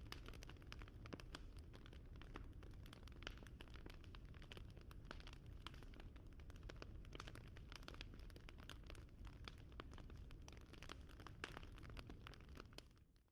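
Wood fire crackling: a dense run of small irregular pops and snaps over a low steady rumble, fading out just before the end.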